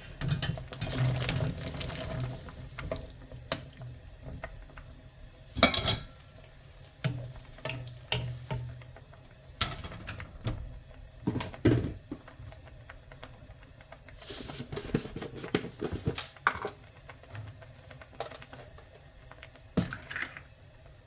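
Kitchen clatter of a basket and utensils knocking against a pot as sliced rice cakes are tipped into boiling water for tteokguk, with scattered clicks and knocks and one loud clatter about six seconds in.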